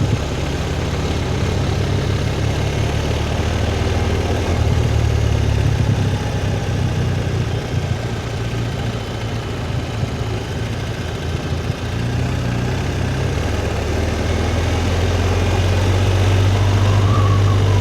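Motorcycle engine running while being ridden, with a steady hiss of wind and road noise over it. The engine gets louder over the last few seconds.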